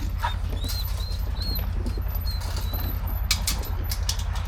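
Pigs eating feed at a trough, with irregular crunching and clicking over a steady low rumble. A few short, high chirps come in the first half.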